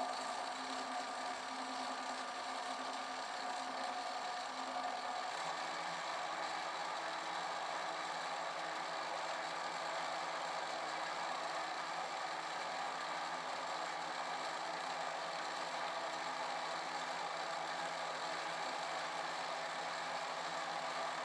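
Electric kitchen mixer running at a steady speed, a motor whine with a constant set of tones, switched on just before and off just after.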